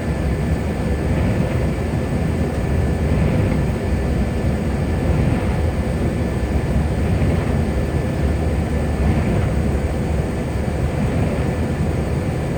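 Car driving on a wet highway, heard from inside: a steady low rumble of road and tyre noise, with a faint swish repeating about every two seconds.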